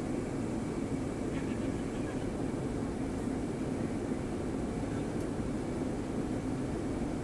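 Steady airliner cabin noise: jet engines and rushing airflow heard from inside the cabin, an even rumble that does not change.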